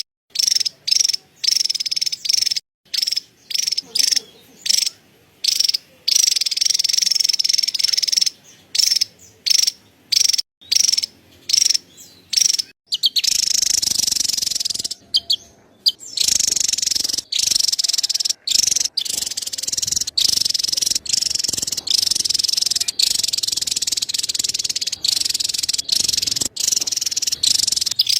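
Javan tesia chattering: high, rapid trills, first in short bursts about twice a second, then in long near-continuous runs broken by brief pauses.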